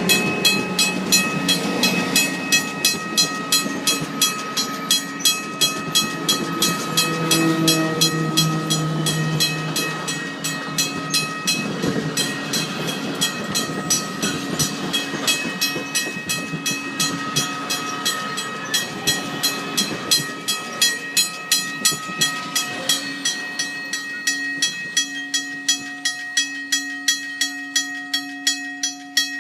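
Rocky Mountaineer passenger train passing, its wheels clacking in an even rhythm about twice a second, with steady high ringing tones above the clatter.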